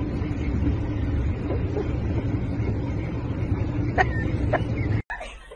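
Steady low rumble of a car heard from inside the cabin, with two short faint sounds about four seconds in. It cuts off abruptly about five seconds in.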